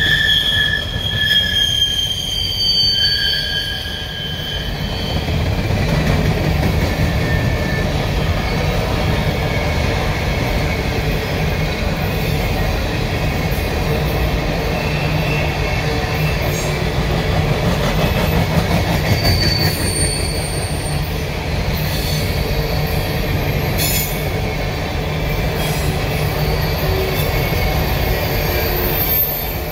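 Coal hopper cars of a CSX freight train rolling past on a curved track: a steady rumble of steel wheels on rail, with high-pitched wheel squeal from the curve, strongest in the first couple of seconds and again about two-thirds of the way through.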